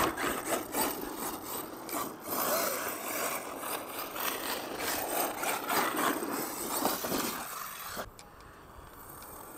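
Arrma Mojave RC truck's tyres crunching and scrabbling over loose dirt and gravel, a rough grinding noise full of small crackles that fades out about eight seconds in.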